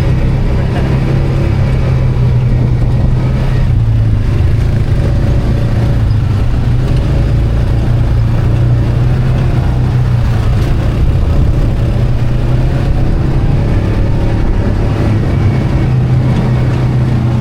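ATV engine running steadily under way, its note holding at a fairly constant pitch with only small rises and falls.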